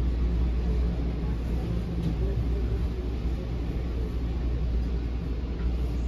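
Steady low rumble and hum inside an NJ Transit MultiLevel commuter rail coach as the train rolls slowly along a station platform.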